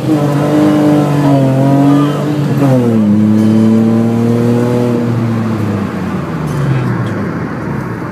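Car engine heard from inside the cabin, pulling under acceleration. Its note drops sharply about three seconds in, holds steady again, then sinks away from about six seconds in as the car comes off the throttle.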